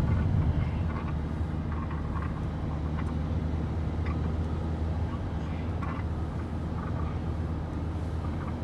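Steady low rumble and hum of a running vehicle, even in level.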